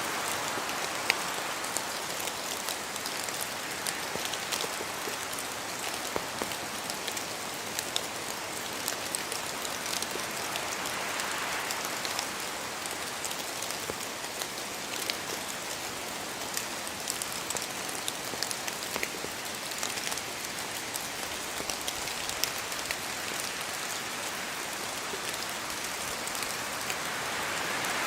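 Steady rain falling in a spruce forest, with scattered sharper drips of drops falling from the branches. Wind swells through the trees about a third of the way in and again near the end.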